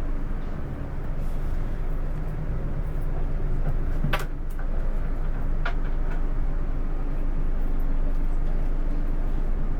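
Scania K410 coach on the move: steady low engine and road drone, with two short sharp clicks or rattles about four and six seconds in.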